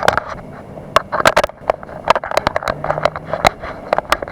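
Irregular sharp clicks, knocks and scrapes close to the microphone: handling noise from the action camera being held and fumbled with, over a steady low background rumble.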